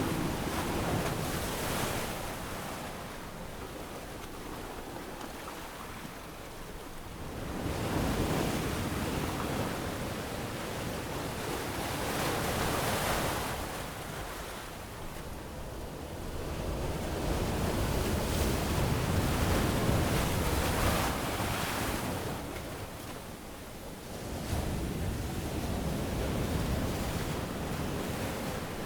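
Ocean waves breaking and washing up a sandy beach, the surf swelling and falling back every few seconds, with some wind.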